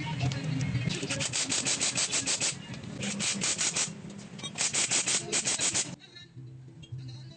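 Rapid back-and-forth rubbing strokes by hand, several a second, in a few runs with short pauses, stopping about six seconds in.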